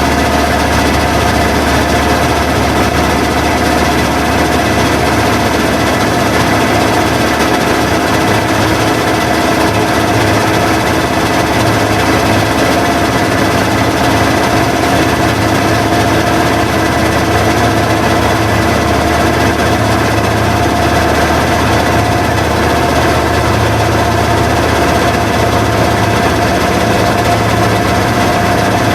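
Washing machine running: a loud, steady machine hum with a few constant tones, unchanging throughout.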